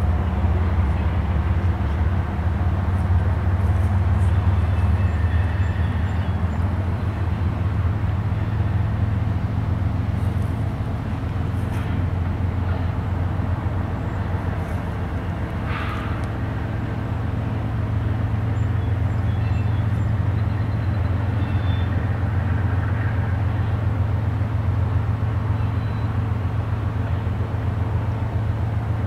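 Distant double-stack intermodal freight train rolling across a long stone-arch bridge: a steady low rumble.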